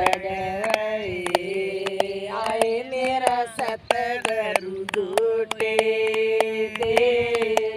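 A woman singing a devotional folk song (bhajan) in long, held, gently wavering notes, with sharp percussive clicks throughout.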